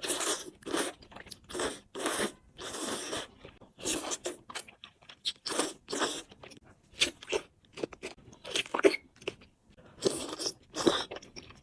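A person eating whole chicken, with crunchy bites and chewing in a quick, irregular run of bursts about twice a second.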